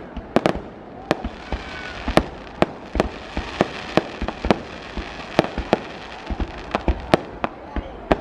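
Fireworks display: shells bursting in an irregular string of sharp bangs, roughly two a second, over a continuous noisy background.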